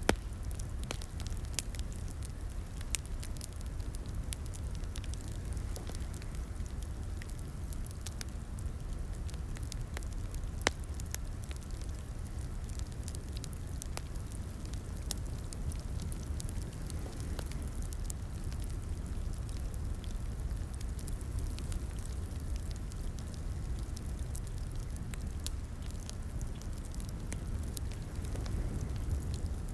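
Wood fire in a fireplace crackling, with irregular sharp pops and snaps over a steady low rumble of flame; a louder snap about ten seconds in.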